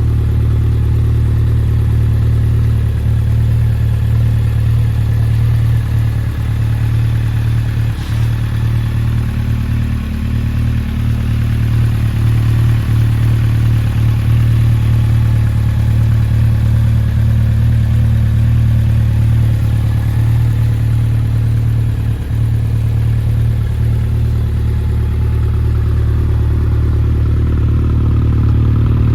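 Honda CB1300 Super Four SP's inline-four engine idling steadily.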